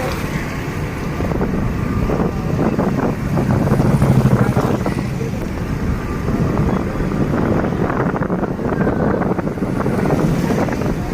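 Wind gusting against the microphone as a loud rumbling noise, swelling about four seconds in, at the start of a rain shower.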